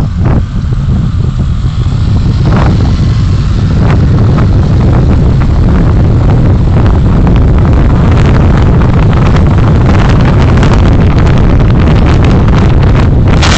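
A vehicle on the move, recorded by an onboard driving recorder: a loud, steady low rumble of road and wind noise on the microphone, with crackling from about eight seconds in and a brief louder burst near the end.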